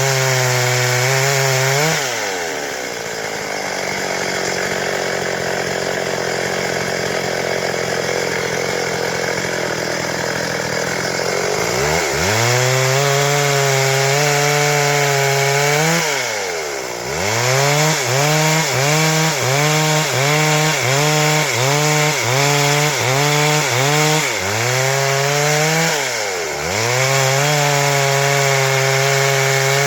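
Stihl MS 382 two-stroke chainsaw running at high revs, then dropping to a lower speed for about ten seconds. It then revs up again and is blipped up and down about once a second, before holding high revs near the end.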